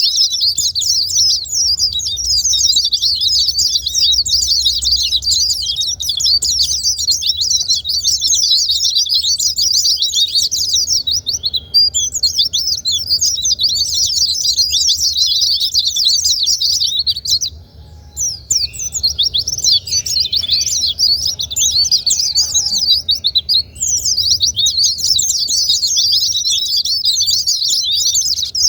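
White-eye (pleci) song: a rapid, continuous stream of high twittering chirps, breaking off briefly about 12 seconds in and again around 18 seconds, over a faint low hum.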